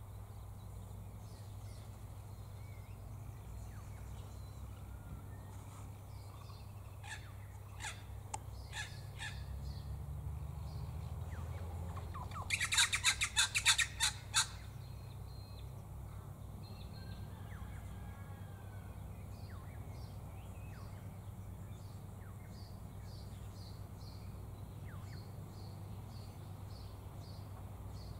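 Honeyeaters squabbling: a few scattered calls, then about halfway through a loud burst of rapid, harsh chattering lasting about two seconds, followed by a faint run of repeated chips. A steady low rumble sits underneath.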